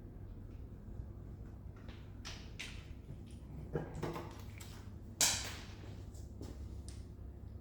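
Scattered clicks and knocks of hand tools and metal parts being worked on a car, with one sharp clank about five seconds in, over a steady low hum.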